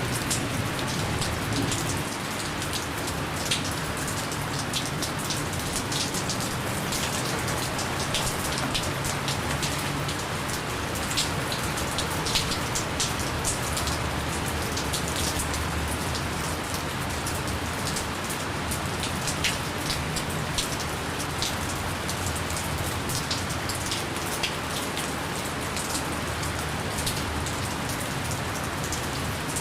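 Steady gentle rain falling, a continuous hiss with many small drop ticks scattered through it.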